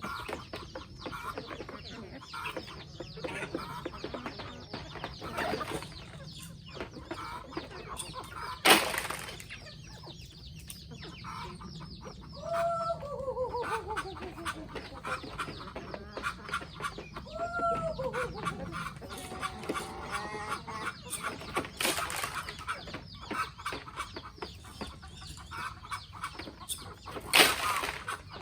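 Free-range chickens clucking, with two drawn-out calls in the middle that fall in pitch. Two sharp knocks stand out above the flock, one about a third of the way in and one near the end.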